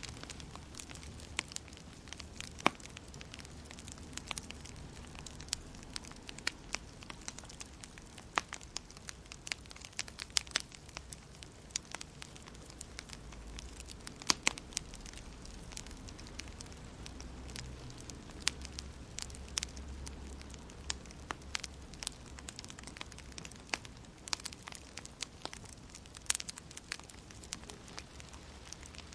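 Wood fire burning in a fireplace, crackling with frequent irregular sharp pops over a low, steady rumble.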